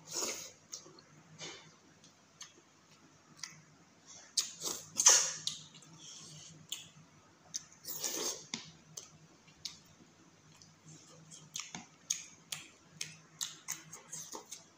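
Close-up eating sounds of a person eating rice and chicken curry by hand: irregular wet chewing clicks and lip smacks, with louder mouth sounds about five seconds in and again around eight seconds.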